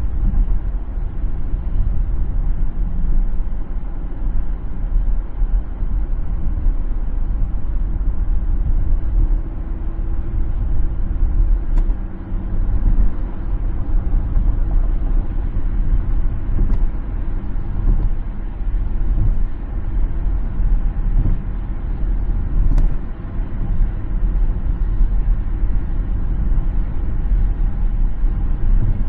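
Car driving on the road: a steady, low rumble of engine and tyre noise, with a few faint ticks.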